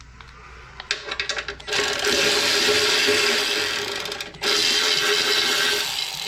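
Handheld power tool backing out a bolt while the wood chipper's wheels come off: about a second of rapid clicking, then the tool runs steadily for nearly three seconds, stops briefly and runs again for under two seconds.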